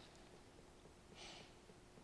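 Near silence: room tone with a low steady hum, and one faint short hiss about a second in.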